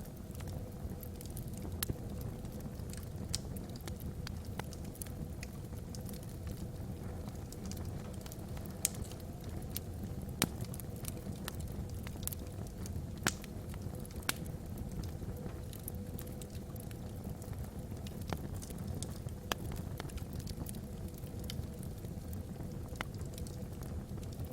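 Wood logs burning in a fireplace: irregular sharp crackles and pops, a few louder than the rest, over a steady low rumble.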